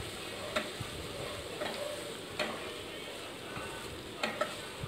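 Grated onion, ginger-garlic paste and whole spices sizzling in oil in a non-stick wok as they are stirred with a wooden spatula. A steady frying hiss runs throughout, with a few sharp knocks of the spatula against the pan, two close together near the end.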